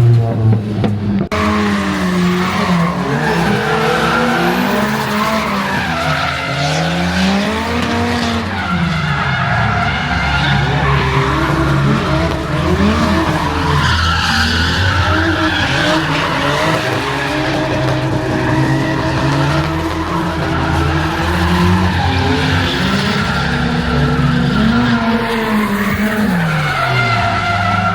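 Drift cars' engines revving up and down again and again, with tyres squealing and skidding, as in a live drift demonstration.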